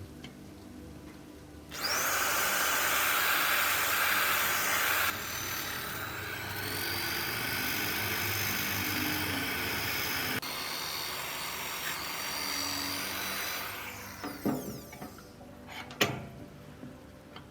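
A power tool running against metal work: it starts about two seconds in, runs loud and steady, drops to a lower level about five seconds in and winds down about fourteen seconds in, followed by a few sharp taps.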